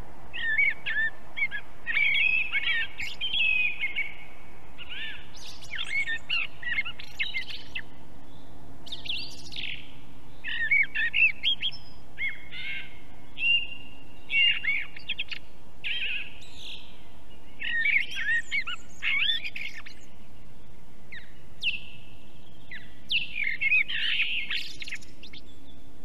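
Wild birds singing: a string of short chirping, warbling phrases, one every second or two, over a faint steady low hum.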